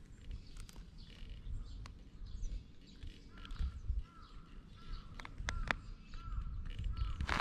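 A small bird chirping in short, evenly repeated calls from about three seconds in, over a low rumble and scattered faint clicks.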